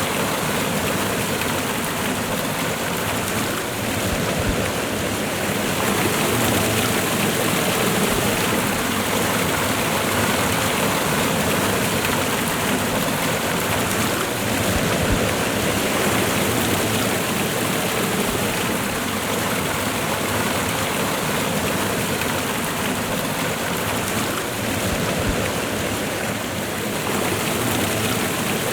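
Waterfall and fast-running river water rushing steadily, a dense, even wash of sound.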